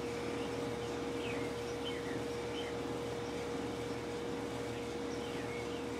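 A few small birds chirping briefly now and then over a steady background hum.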